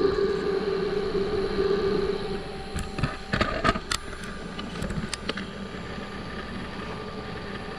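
Wood lathe running with a wet poplar lampshade blank spinning on it. The sound grows quieter over the first few seconds, and a few sharp clicks and knocks come about three to five seconds in.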